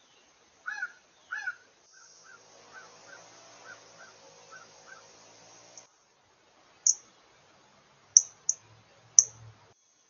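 Wild birds calling: two harsh, caw-like calls in quick succession, then a run of short, evenly repeated notes, then a few sharp high chips near the end.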